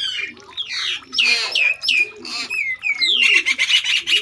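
Birds calling: many quick, loud chirps that sweep down in pitch, with a rattling call about three seconds in, over soft, low, repeated cooing of doves.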